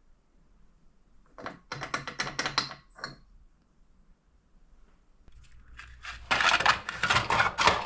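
Small metal engine parts and tools clattering on a workbench: a short run of rattles and clinks about a second and a half in, then a longer, denser rattling from about six seconds on.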